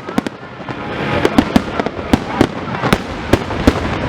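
Fireworks display: a rapid, irregular series of sharp bangs and pops, several a second, over a steady noisy background.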